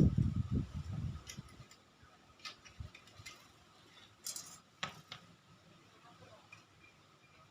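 A low rumble fading out in the first second and a half, then scattered light clicks and taps, about six in all, several seconds apart.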